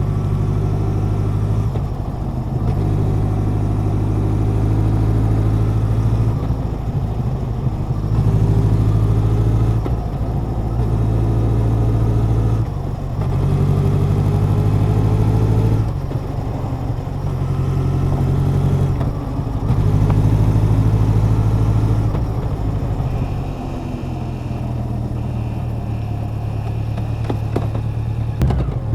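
Honda CB1100's air-cooled inline-four engine and exhaust under way, pulling up through the gears with brief dips at each shift. It eases into a steadier, slowly falling note in the last several seconds.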